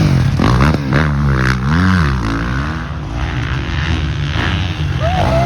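Motocross dirt bike engines running hard on the track, the pitch rising and falling repeatedly as the throttle is worked.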